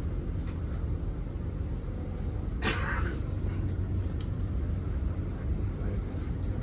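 Inside a moving Great Western Railway Class 800 train: a steady low rumble of the train running, with a brief hiss about two and a half seconds in.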